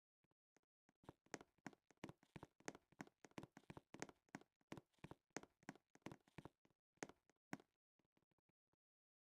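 Faint, quick clicks and taps, several a second, starting about a second in and thinning out near the end.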